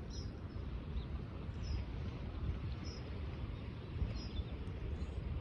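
A small bird gives short, high calls, one about every second or so, over a steady low rumble.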